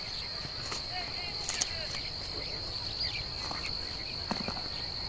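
A steady high-pitched insect drone, with scattered short bird chirps and a few clicks over it.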